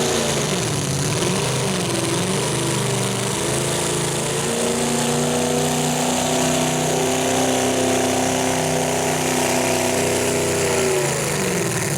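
Super stock two-wheel-drive pulling truck's engine running hard at high revs under load. The revs waver up and down for the first few seconds, then hold steady, and fall away near the end as the throttle comes off.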